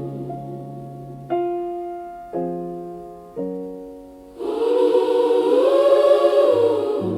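Gospel music: three piano chords struck about a second apart, each fading away, then a choir comes in singing a held, swelling phrase.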